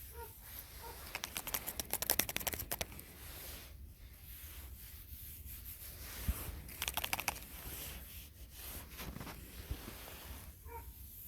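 Two bursts of rapid scratchy crunching, one of about a second and a half near the start and a shorter one past the middle, from hands working in the garden.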